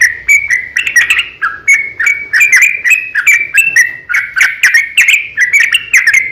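Yellow-vented bulbul (trucukan) singing loudly in a long, rapid run of short bubbling chirps and slurred notes, phrase after phrase without a break: the continuous 'gacor' song used as a lure to set other bulbuls singing.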